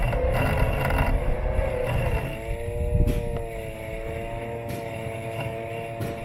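Robot lawn mower's electric motors whining, heard close up with the microphone on the mower body, over a low rumble of the machine rolling on grass. It is rougher and louder for the first two seconds, then settles into a steady whine of several tones, with a few sharp knocks.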